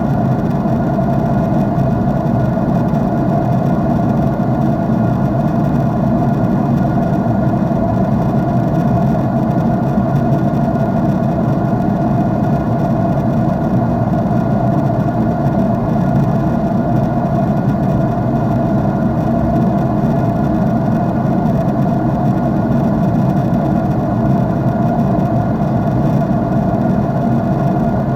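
Steady drone of a jet airliner's engines and airflow as heard inside the passenger cabin in cruise, a constant low rumble with a faint steady hum on top.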